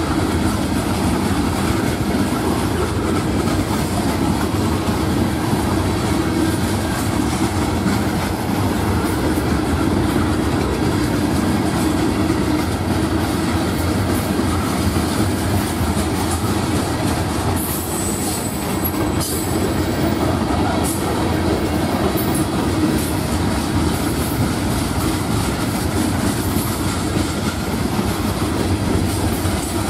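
Loaded Florida East Coast freight hopper cars rolling steadily past, their steel wheels clicking over the rail joints with a continuous rumble.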